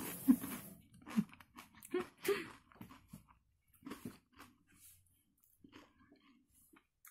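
A person chewing and smacking their lips on a mouthful of chocolate cake, with a few short hummed sounds in the first couple of seconds. It then goes quiet apart from a few faint clicks as containers are handled.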